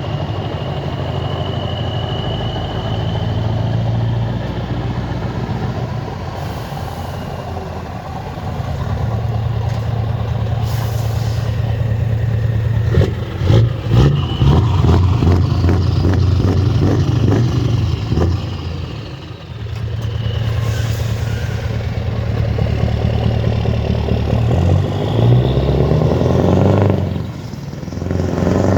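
Scania V8 diesel truck engine with an open exhaust pipe running. The note holds steady, then turns louder and rougher for several seconds in the middle, easing off again twice. A brief high whistle sounds near the start.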